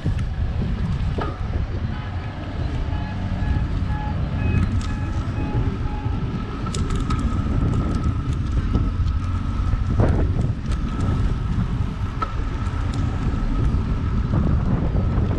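Street traffic and wind rumble on the microphone during a bicycle ride through city streets, with a faint steady whine held for most of the stretch and a few light clicks.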